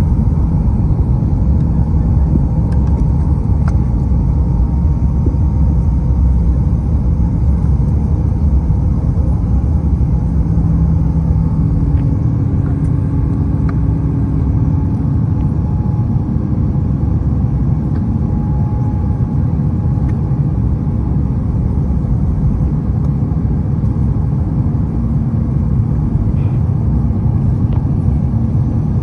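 Steady low rumble of an Airbus A350-900's Rolls-Royce Trent XWB engines and airflow, heard inside the passenger cabin, with a faint steady tone over it and a few faint clicks.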